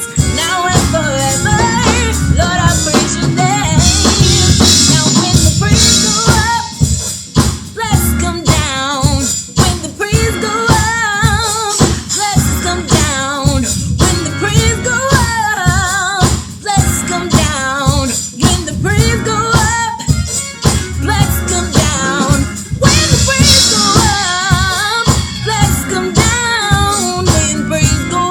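Live gospel praise and worship song: voices singing with vibrato over a band with drum kit and tambourine keeping a steady beat.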